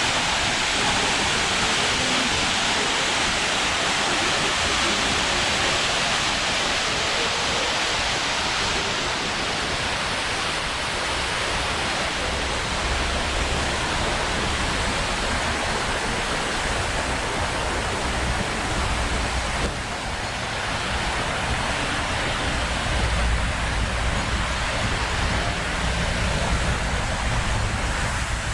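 A steady rush of falling water. In the second half, uneven low rumbling from wind on the microphone is added.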